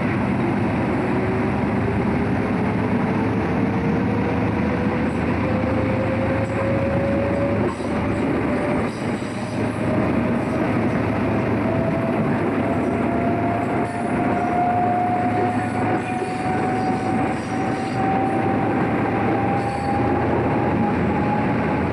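Train running on the rails, a steady loud rumble, with a whine that climbs slowly and evenly in pitch throughout.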